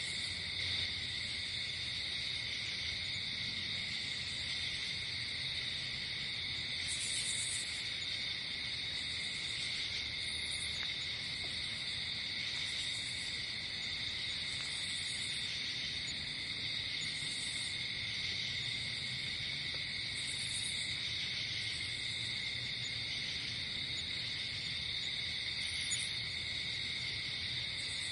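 Crickets chirring in a steady, unbroken chorus, with a shorter, higher call repeating every two to three seconds over it.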